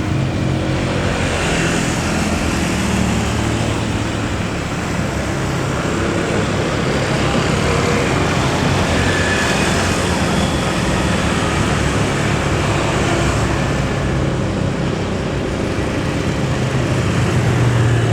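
Jet airliner engines, a loud steady noise with a low hum underneath that holds for the whole stretch.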